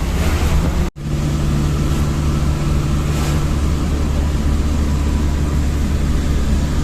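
Vehicle driving along a road, with a steady low engine and road rumble and a constant hiss. The sound cuts out for an instant about a second in, then carries on unchanged.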